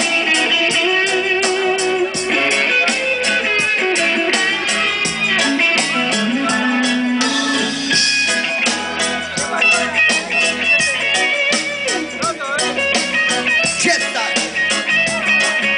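Instrumental break of a Spanish-language rock song: electric guitar playing over a steady drum beat, with bending notes.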